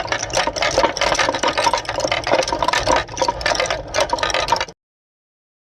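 Many marbles rolling and clattering along a marble run track, a dense stream of rapid clicks and rattles that cuts off suddenly near the end.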